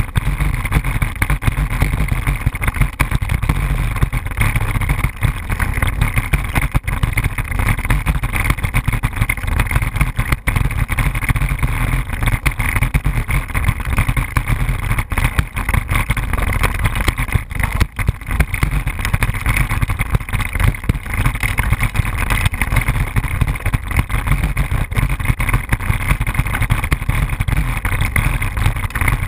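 Wind buffeting the microphone: a loud, steady, unbroken rumble.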